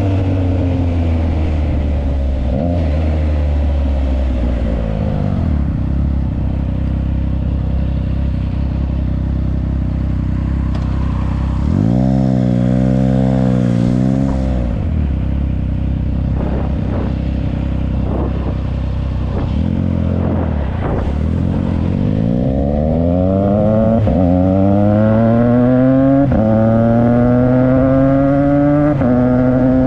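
Triumph Trident 660's inline three-cylinder engine running through a Yoshimura exhaust on the move. The revs fall off at the start, rise briefly and drop back around halfway, then climb hard from about two-thirds in, the pitch dropping back at two upshifts near the end.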